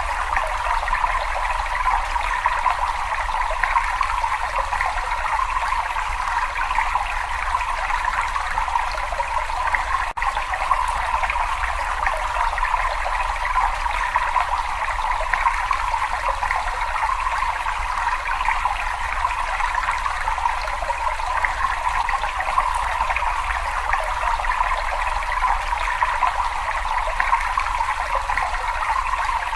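Water trickling and splashing steadily in a cave, a continuous even rush with no pauses.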